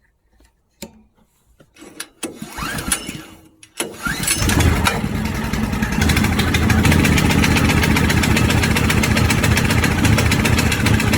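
Wood chipper's small petrol engine being cold-started on choke: a few clicks, a short burst of cranking, then the engine catches about four seconds in and runs steadily.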